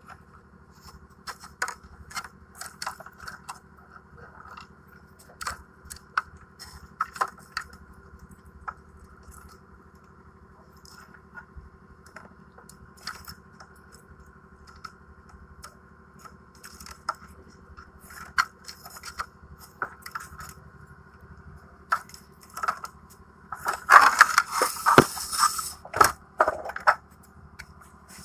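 Hands and tools working on an air conditioner's metal parts: scattered clicks, scrapes and knocks over a steady background hum, growing louder and busier near the end.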